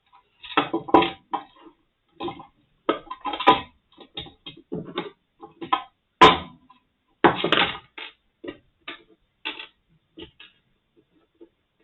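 Irregular clicking and clattering of a Brüel & Kjær 2250 sound level meter's casing parts and small screws being handled and set down during disassembly, with one sharper knock about six seconds in.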